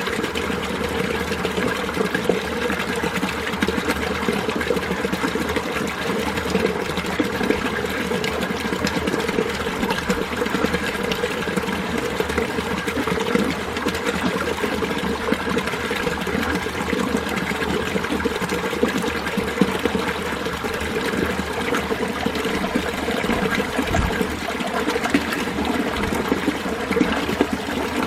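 Mountain stream running over rocks: a steady, even rush of flowing water with bubbling and trickling.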